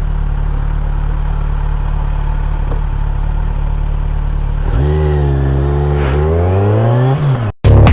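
Motorcycle engine idling steadily, then revving from about five seconds in, its pitch rising and dipping several times before it cuts off abruptly near the end.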